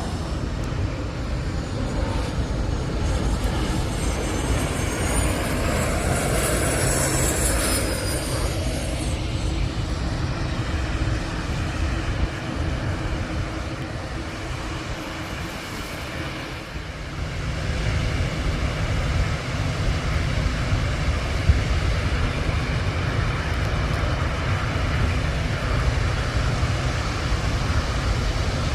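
Jet airliner passing low overhead on its landing approach: a steady engine rumble, with a high-pitched turbine whine that rises and then falls a few seconds in.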